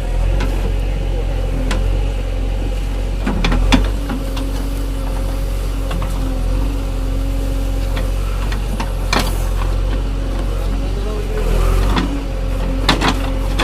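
An engine running steadily, with a few sharp knocks or clacks over it, the loudest about 4 s and 9 s in and a quick cluster near the end.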